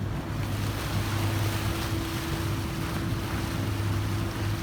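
Boat's outboard motor running steadily as the boat gets under way, with wind and water rushing past; the rush grows just after the start.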